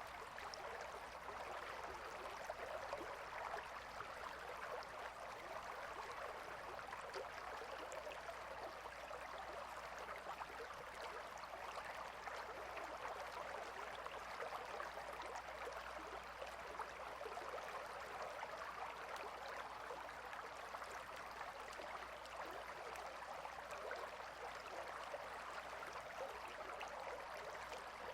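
A gentle river flowing, a steady soft rush of water with fine babbling throughout.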